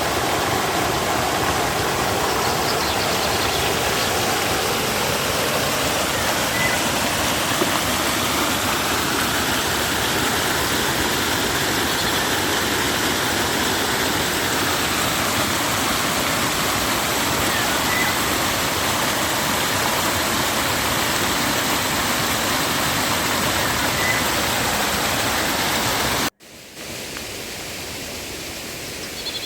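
River water rushing steadily. About 26 seconds in it cuts off abruptly, then comes back much quieter.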